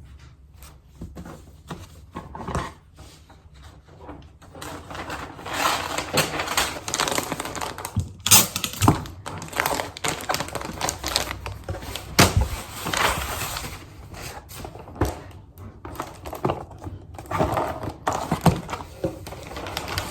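Irregular clicks, knocks and clatter of objects being handled and set down, with a few louder thumps.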